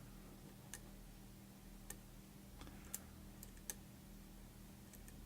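Faint, irregular clicks of a lock pick and tension wrench working the pins of a pin-tumbler challenge lock during single-pin picking, over a low steady hum.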